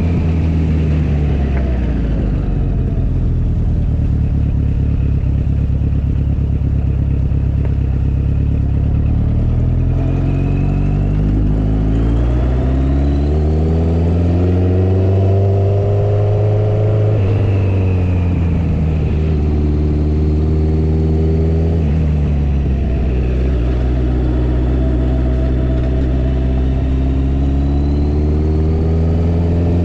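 Motorcycle engine running under way, its pitch climbing steadily as it pulls and dropping back sharply, about three times, then holding fairly steady near the end.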